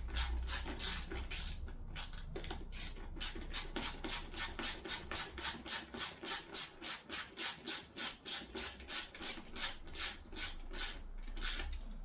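Hand socket ratchet with a 10 mm socket clicking steadily, about four clicks a second, as a bolt is wound out.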